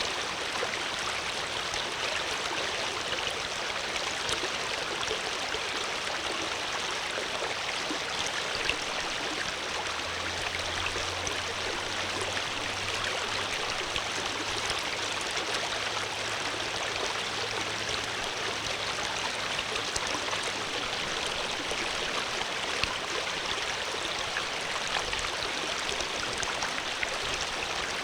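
Water flowing steadily over stones in a stream, a continuous rushing with small splashes and gurgles throughout.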